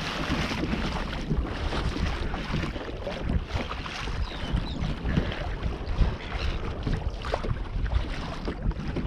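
Wind buffeting the microphone over water splashing and lapping around a kayak on the open river.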